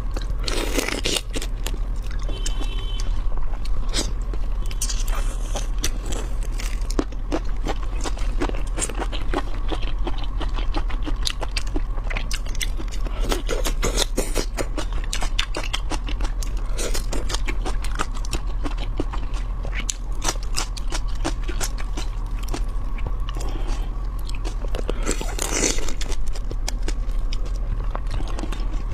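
Close-miked eating of shrimp: dense, irregular crunching, biting and chewing, with a few louder crunches, over a faint steady hum.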